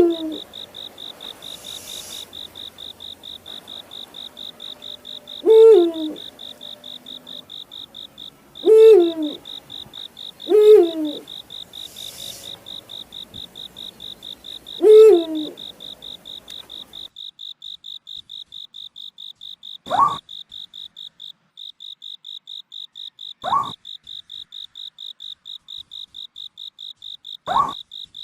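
An owl hooting: five calls a few seconds apart, each with a rising hook, then three shorter, higher calls in the second half. A cricket chirps steadily underneath in fast even pulses.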